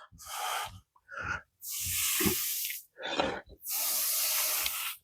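A person breathing hard with effort: a few short breaths, then two long, hissing exhales about a second each.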